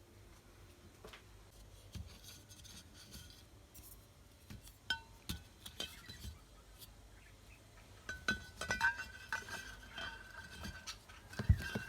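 Glassware clinking: a few scattered clinks, then from about two-thirds of the way in a quicker run of clinks with a ringing note.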